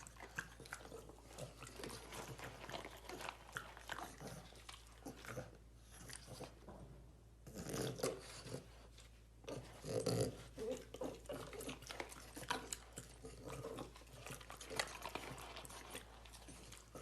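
French bulldog puppy chewing and gnawing, a busy run of small crunches and clicks, with two louder bursts about eight and ten seconds in.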